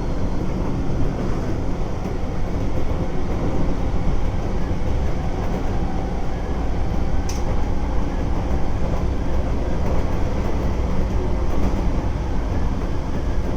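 Keisei 3400 series electric train running steadily, heard from inside the car: a continuous rumble of wheels and traction equipment, with a brief sharp tick about seven seconds in.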